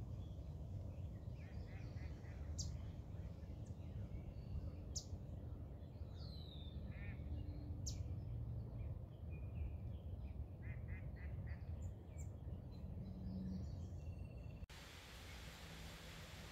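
Birds calling now and then: short sharp notes, a falling whistle, and quick runs of three or four notes, over a steady low rumble. Near the end the sound cuts to a flat hiss.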